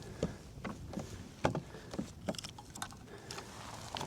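Irregular light clicks and knocks as a just-landed fish and tackle are handled aboard a fishing kayak, over a low steady hiss.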